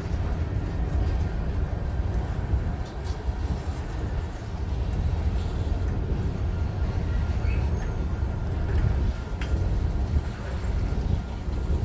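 Union Pacific freight train rolling past: a steady low rumble with a few sharp clicks from the cars.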